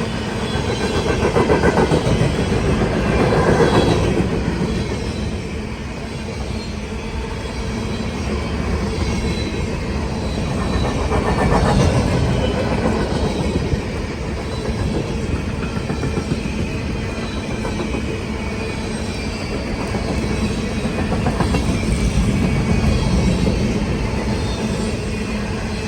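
Long CSX freight train's cars rolling past, a steady rumble with wheel clatter that swells and eases several times.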